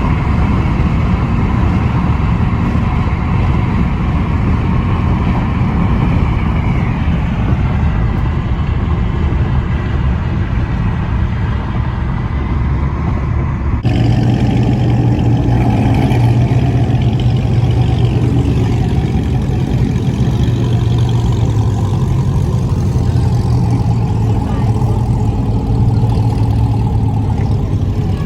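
Car engine noise running steadily, with an abrupt change about halfway through to a deeper, steady engine drone.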